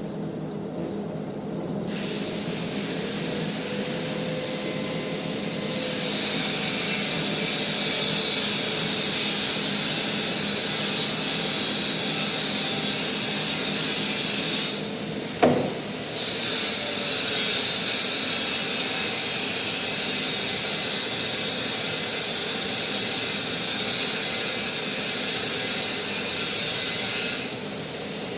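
Manual metal lathe running with a steady hum. A loud high hiss joins about six seconds in, breaks off briefly around the middle with a short sharp sound, then resumes until just before the end.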